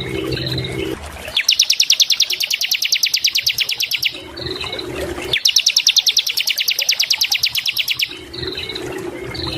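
A ciblek (bar-winged prinia) singing: a fast, even trill of sharp high notes lasting nearly three seconds, given twice, with short single chirps between the trills. A low hum sounds in the gaps between the trills.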